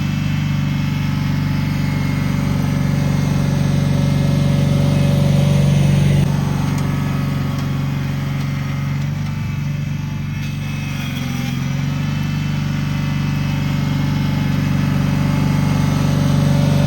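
Cub Cadet 782 garden tractor engine running steadily, with slight changes in speed about six and eleven seconds in.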